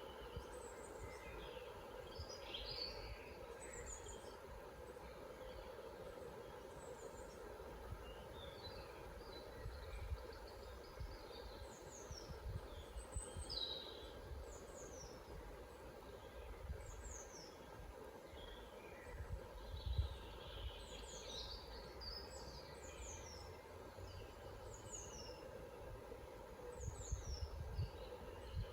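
Forest birdsong: several small birds calling, with many quick, high, falling chirps repeated throughout and scattered softer calls, over a faint steady background and an occasional low rumble.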